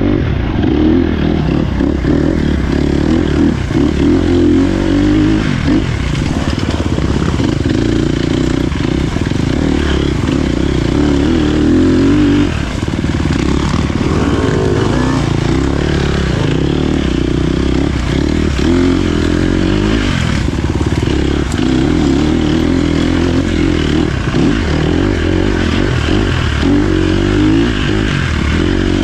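Dirt bike engine running hard along an off-road trail, its note rising and falling with the throttle, with a brief drop about twelve seconds in.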